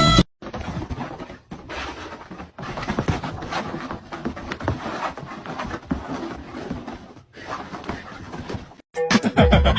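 Indoor room noise with scattered soft knocks and rustles. Music with plucked-string notes starts near the end.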